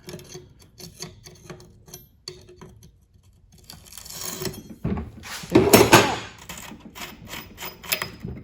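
Bicycle chain and rear drivetrain parts being handled and worked by hand: irregular small metallic clicks and rattles, with a louder stretch of rattling about five to six seconds in.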